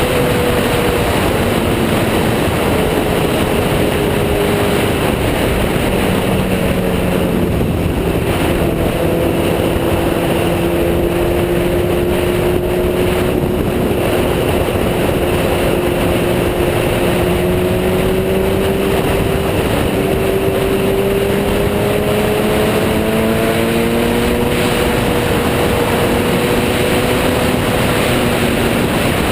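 Sport motorcycle engine running at a steady cruising speed, its pitch drifting slowly up and down, under a heavy, constant rush of wind noise from riding.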